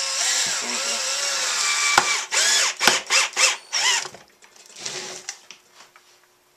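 Power drill driving screws: one long run with the motor's pitch wavering under load, then several short bursts as the screws are seated, and one last brief burst.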